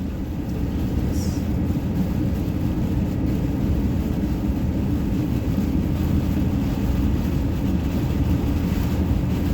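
Steady road and engine noise of a moving car, heard from inside the cabin: a constant low rumble with no breaks.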